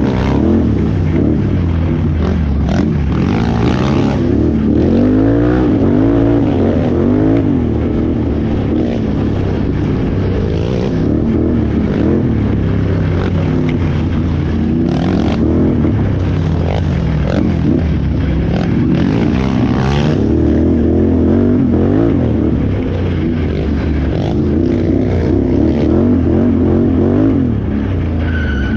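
Can-Am Renegade XXC 1000R ATV's V-twin engine being raced off-road, its revs rising and falling continually as the throttle is worked. A few short knocks or scrapes come through over the engine.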